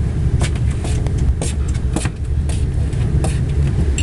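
Passenger train carriage moving off slowly, heard from inside: a steady low rumble with irregular sharp clicks and clanks from the wheels and coach.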